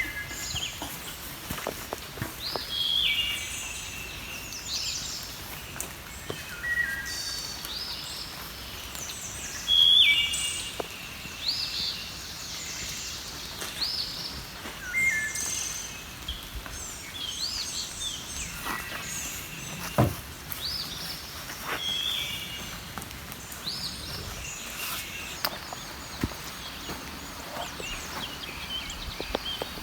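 Songbirds singing: short, high phrases repeated every second or two, with a few soft knocks and clicks, the clearest about two-thirds of the way through.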